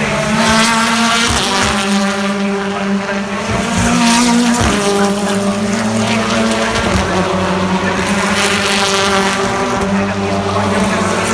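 British Touring Car Championship cars with turbocharged four-cylinder engines running at high revs as they pass one after another, each pass swelling and fading with its engine pitch shifting.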